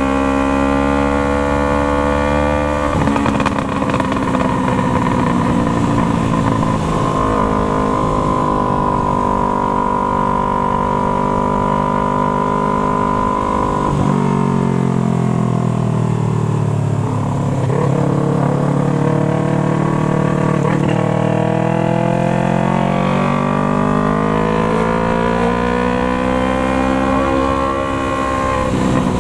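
Yamaha MT-03's parallel-twin engine through a Jeskap aftermarket exhaust, ridden at steady revs. About halfway through the revs drop away as the bike slows, then build steadily again under acceleration, with a gear change near the end.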